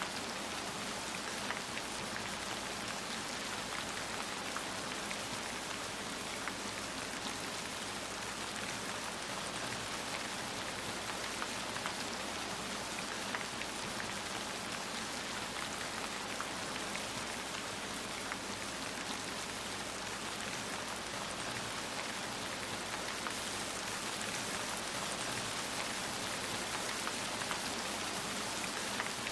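Heavy rain falling steadily, a dense even hiss with scattered drops pattering on a surface.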